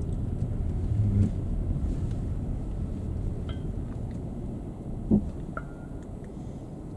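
Car driving through town, a steady low road and engine rumble that slowly fades, with one sharp knock about five seconds in.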